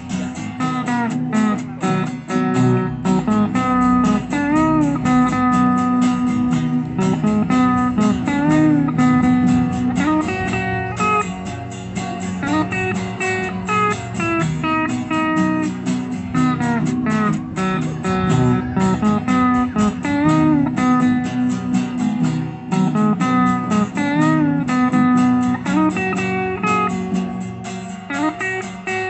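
Live band playing an instrumental guitar break: a lead guitar line with bent notes over strummed rhythm guitar and bass.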